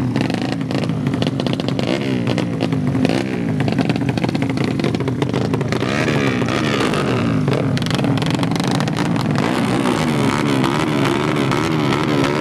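Several underbone motorcycle engines revving, their throttles blipped so the pitch climbs and drops again and again, the engines overlapping.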